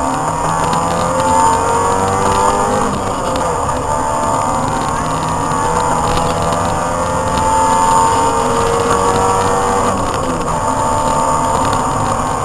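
Opel Astra 2.0 16V GSi rally car's four-cylinder engine accelerating hard under load, heard from inside the cabin. The pitch climbs, drops at a gear change about three seconds in, then climbs slowly for several seconds before dropping at another shift near the end.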